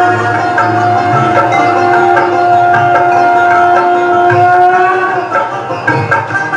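Saxophone playing a film-song melody in raag Kalyan, holding one long note for about five seconds and then moving into shorter notes, over a backing track with tabla.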